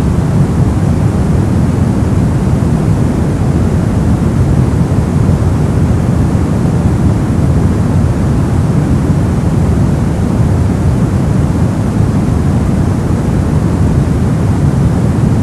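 Brown noise: a steady, deep rumbling hiss with most of its energy in the low end, even and unchanging throughout.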